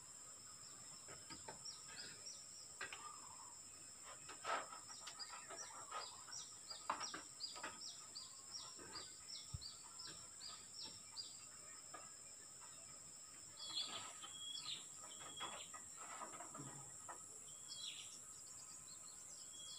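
Wild birds calling: a run of short, quick, falling high chirps repeated about twice a second, then a few short whistled notes near the end.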